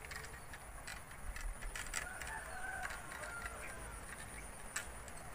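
A faint, drawn-out bird call about two seconds in, over quiet outdoor background noise with a few soft clicks.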